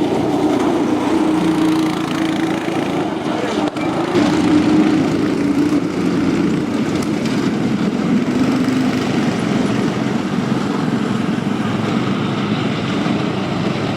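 Small cyclekart engines running, their pitch rising and falling with the throttle.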